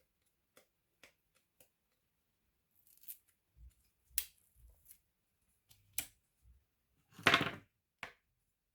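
Light, scattered clicks and taps of small laptop parts being handled, with one louder, rough rasp of about half a second near the end, like plastic scraping or catching.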